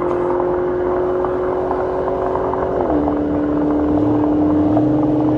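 Car engine at steady revs, its pitch dropping once about three seconds in and holding at the lower pitch.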